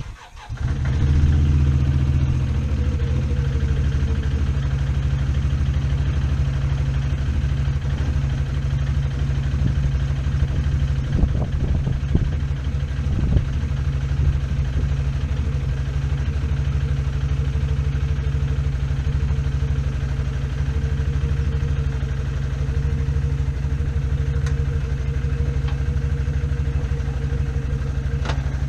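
Four-wheeler (ATV) engine starting about a second in, then idling steadily.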